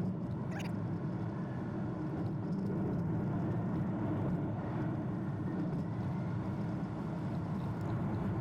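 Steady road, tyre and engine noise of a Toyota Prius driving, cutting off abruptly at the end.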